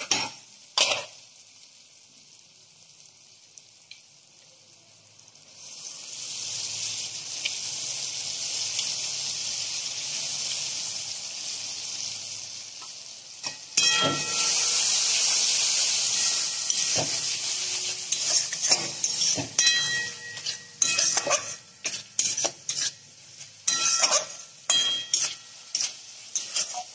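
Ground spice paste of ginger, chilli, cumin and coriander frying with softened tomato in oil in a kadai, stirred with a flat metal spatula. After a tap and a few quiet seconds, a hissing sizzle builds about five seconds in and grows louder about fourteen seconds in. In the second half the spatula scrapes and taps against the pan again and again.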